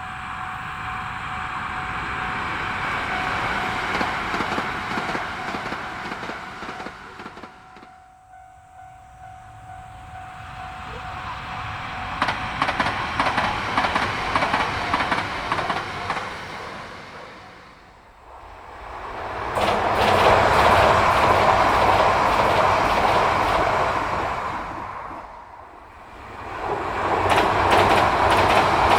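Yamagata Shinkansen train running on the rails, the noise swelling and fading three times, with rapid clicking of wheels over the rails in the louder stretches.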